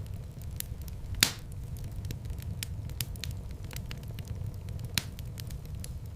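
Fire in a fireplace crackling, with a steady low rumble of flames under many small ticks and crackles. A loud sharp pop comes about a second in, and a smaller one near the end.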